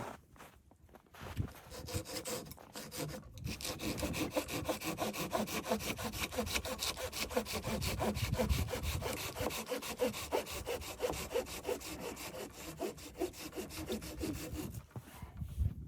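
Hand saw cutting through wood in quick, even back-and-forth strokes, starting a few seconds in after some scattered knocks and stopping near the end.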